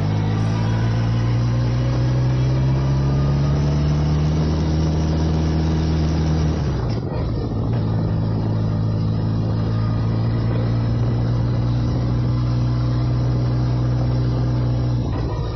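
1979 Yamaha XS1100's inline-four engine pulling through a gear, its pitch slowly rising. About seven seconds in a gear change drops the pitch, and it runs on steadily at cruise. There is another brief break near the end.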